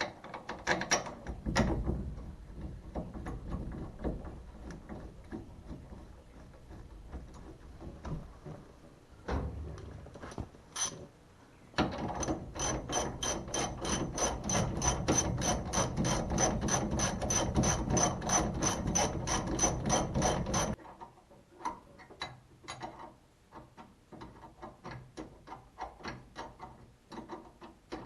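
Ratchet wrench clicking in a fast, even run of about five clicks a second for some nine seconds, with scattered metal clinks and knocks before and after, as the brake caliper is bolted back on.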